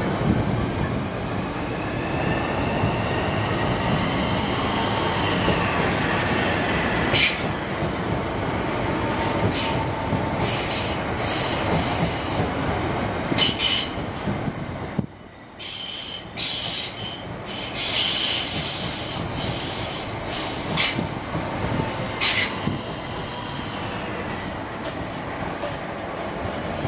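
Southeastern electric multiple-unit trains running along the platform: a steady rumble of wheels on rail, with wheel squeal. A wavering high whine comes a few seconds in and again near the end, among scattered sharp squeaks and clicks. The sound drops out abruptly for about a second halfway through.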